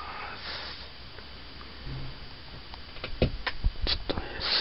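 Several light clicks and taps in quick succession about three to four seconds in, over faint room hiss.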